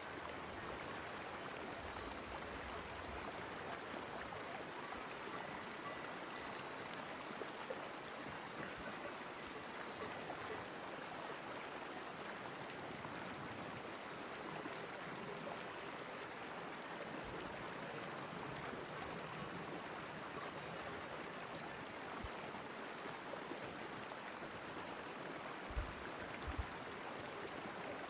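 Steady rush of a flowing stream, with a few faint high chirps early on and a couple of brief low bumps near the end.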